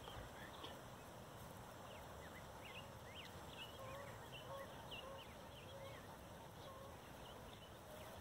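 Birds calling over a steady background hiss: quick high chirps through the first six seconds, and from about four seconds in a series of short low notes repeated about every half second.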